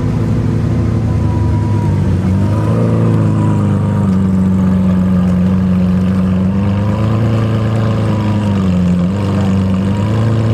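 Car engine idling steadily, its pitch shifting slightly up and down a few times.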